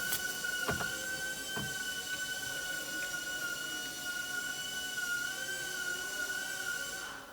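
A small electric motor whining steadily at a high pitch, wavering slightly, with a few sharp clicks in the first couple of seconds; the whine stops just before the end.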